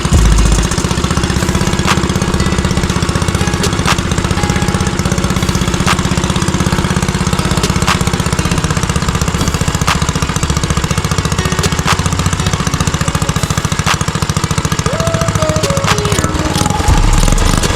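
Motovox mini bike's small single-cylinder engine idling steadily, with an even, rapid firing beat and no revving.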